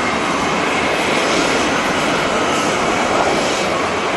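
Jet airliner's engines: a steady rush of noise with a faint high whine running through it.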